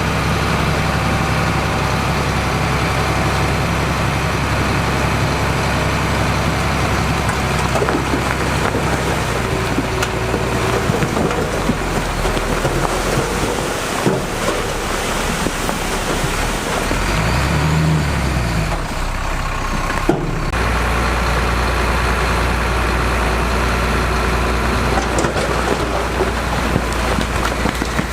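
Diesel engines of heavy earthmoving machinery running under load, with scattered knocks and clanks. The engine note changes from time to time, revs up and back down near the middle, and switches abruptly to a different steady drone about two-thirds of the way through.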